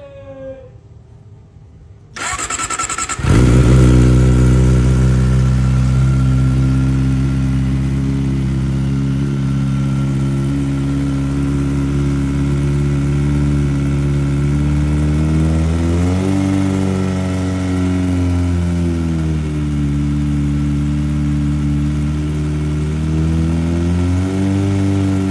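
Superbike engine started: a short burst of starter cranking about two seconds in, the engine catching a second later, then idling steadily through its exhaust. The revs rise and fall slowly twice, once around the middle and once near the end.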